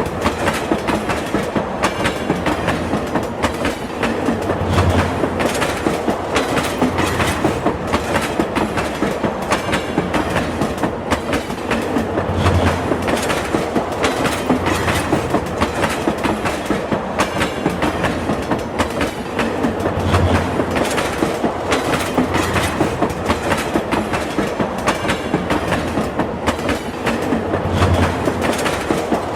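A train running at speed, its wheels clicking over the rail joints in a steady, fast rhythm over a continuous rumble.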